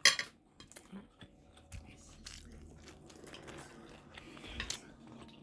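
Close-up eating sounds at a table: chewing and biting of shrimp, with scattered small clicks and a sharp clatter right at the start.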